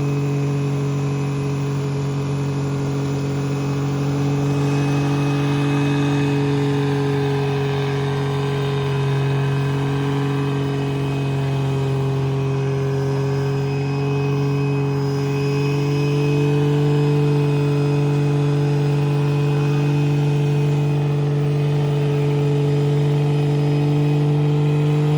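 An engine running at a steady, unchanging speed. Near the end it cuts off and its pitch slides quickly down.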